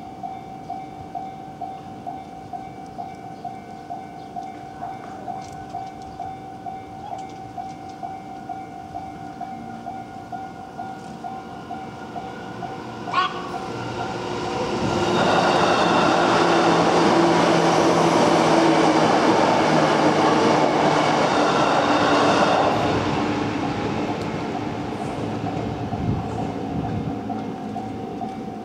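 Level-crossing warning bell ringing in an even, repeating clang while an electric commuter train on the Nambu Line approaches. A little under halfway through the train passes over the crossing, loud for about eight seconds, then fades away while the bell keeps ringing.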